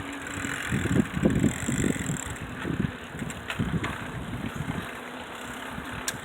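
Wind buffeting the microphone during a bicycle ride, in rough gusts over steady riding noise, with a couple of light clicks.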